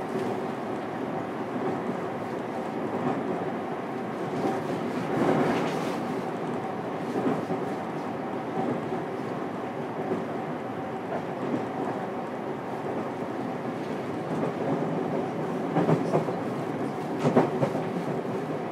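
Running sound inside a JR Kyushu 303 series electric train, recorded in the motor car: a steady hum from the running gear, with clusters of wheel clicks over rail joints about five seconds in and again near the end.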